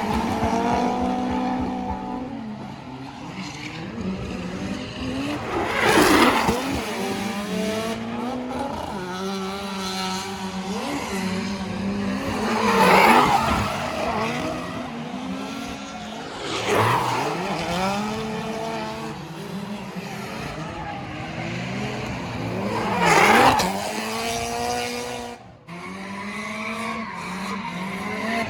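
Drift cars running past one after another, engines revving up and down with tyre squeal as they slide. The louder passes come about every five to seven seconds.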